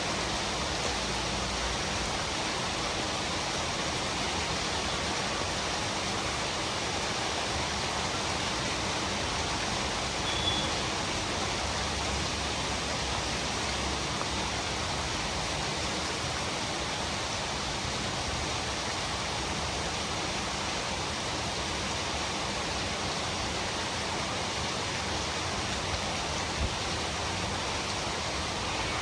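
Steady rain falling, an even hiss with no breaks. There is a brief faint high peep about ten seconds in.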